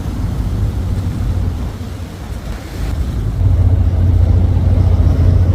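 Small boat under way: a steady low rumble of its engine mixed with wind buffeting the microphone, growing louder from about three seconds in.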